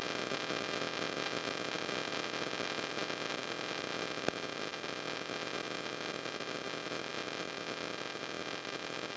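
Steady hiss with faint, constant high tones mixed in, and a single sharp click about four seconds in.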